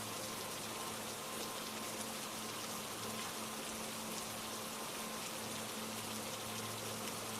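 Steady rain, a dense even patter of raindrops, with faint low held notes sustained underneath.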